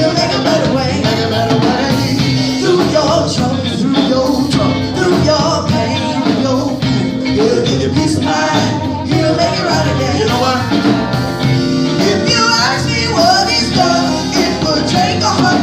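Upbeat gospel music from a band, with a steady beat and no lead vocal line clear enough to be transcribed.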